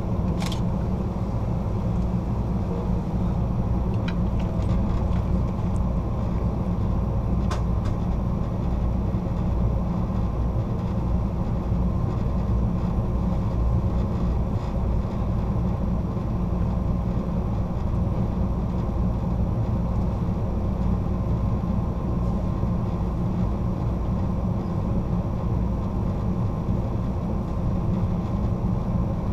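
Steady low rumble of a passenger train rolling on the rails, heard from inside the rear car, with a few light clicks in the first several seconds.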